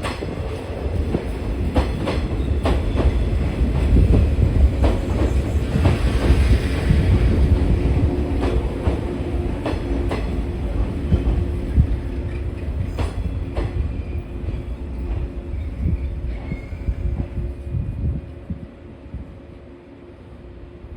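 A train running past, a heavy rumble with wheels clicking over rail joints, swelling to its loudest a few seconds in and then fading away near the end.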